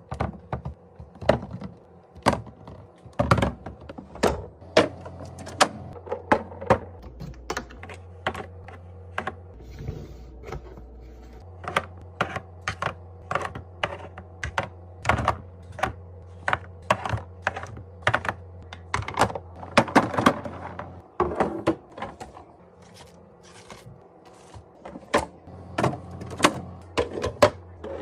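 Containers, jars and bottles being set down and shuffled on fridge shelves during restocking: an irregular run of sharp clicks and knocks, several a second, over a low steady hum.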